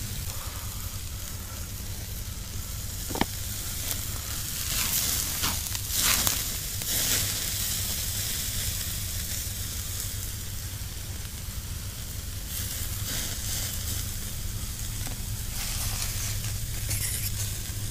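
Steak and mushrooms sizzling steadily over a small wood-fired camp stove, the mushrooms sautéing in a titanium fry pan. There is a single sharp click about three seconds in.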